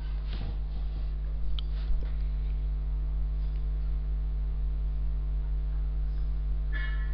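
Steady electrical mains hum in the recording, with a couple of short clicks about one and a half and two seconds in.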